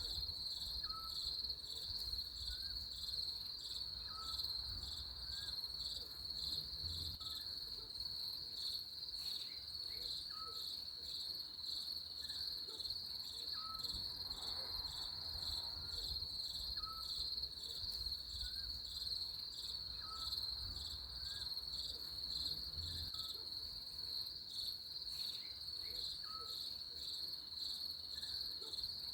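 Crickets chirping in a steady, rapid high-pitched trill. Over it, a short faint chirp repeats about every second and a half, with a soft low rumble underneath.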